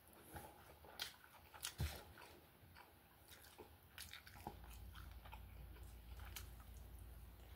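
Faint chewing and biting of a beef steak taco, with scattered soft mouth clicks and smacks.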